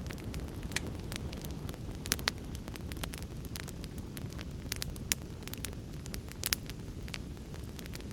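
Wood fire burning in a fireplace: a steady low rush of flame with frequent sharp crackles and pops, a few louder pops about two seconds in and again near six and a half seconds.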